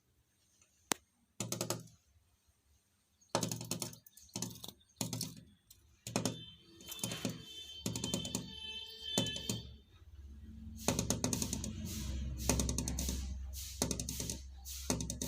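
A small bird pecking at window glass: rapid clusters of taps on the pane, coming in bursts with short gaps between them. A low rumble comes in about ten seconds in.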